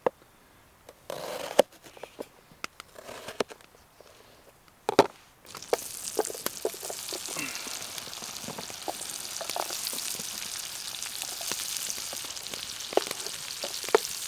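A few scattered knocks and clicks. Then, after a loud knock about five seconds in, food goes into hot butter in a pan and sizzles steadily, with small ticks and pops through it.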